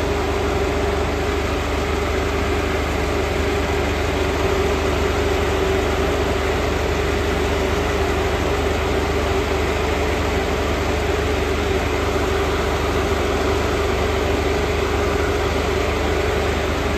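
Mitsubishi Montero V80 DI-D diesel engine idling with an electric radiator fan running, a steady rush of air over a constant hum that does not change.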